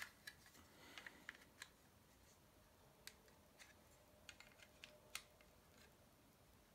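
Faint, irregular small plastic clicks and taps of Lego bricks being handled and pressed together.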